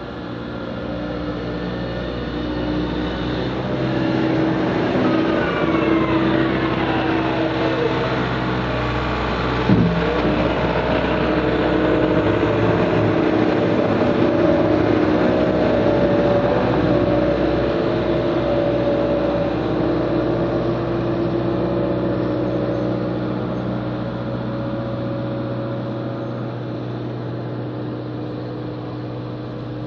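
Engine of a snow-plowing work vehicle running steadily. It grows louder over the first few seconds and eases off toward the end. A whine falls in pitch a few seconds in, and a single sharp knock comes about ten seconds in.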